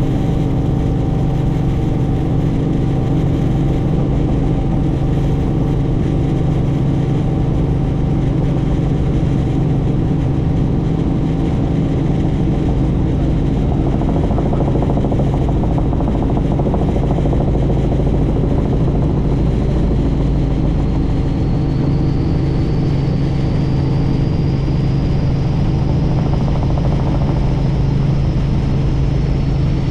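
Helicopter in flight: a steady engine and rotor drone with a constant low hum. A faint high whine slowly rises in pitch about two-thirds of the way in.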